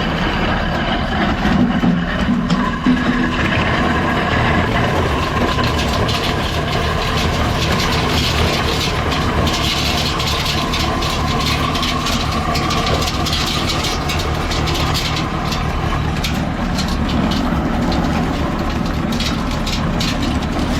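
1948 Allis-Chalmers C tractor's engine running steadily while belt-driving a feed grinder grinding corn, with a dense patter of rapid clicks and cracks from the kernels being ground, thickest in the middle and later part.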